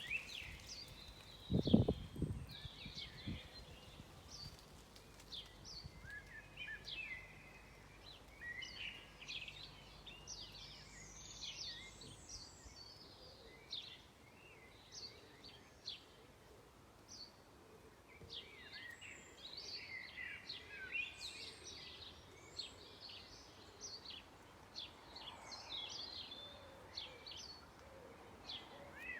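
Several birds singing and chirping at dusk: a steady stream of short, high chirps and trills, overlapping. A brief low thump about two seconds in is the loudest thing.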